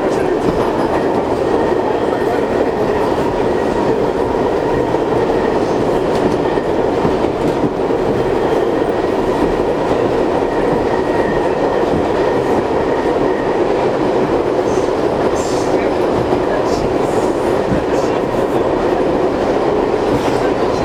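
R62 subway car running at speed, heard from inside the car: a loud, steady rumble of wheels on rail with a faint steady whine. A few faint clicks come in near the end.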